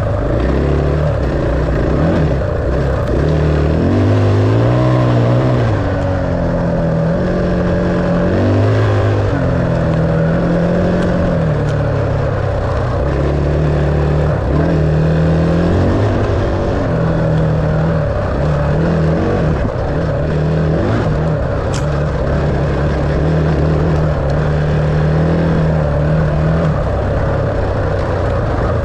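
Dirt bike engine running, its pitch rising and falling repeatedly as the throttle is rolled on and off.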